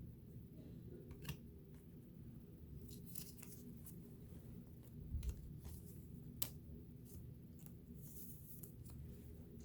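Faint handling of trading cards and their pack wrapper: scattered crinkles, rustles and small clicks, with a dull thump about five seconds in.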